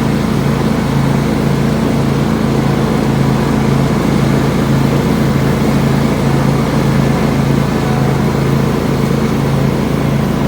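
2004 John Deere LX277 lawn tractor engine running steadily at mowing speed, with its 42-inch mulching deck cutting grass; a loud, even drone.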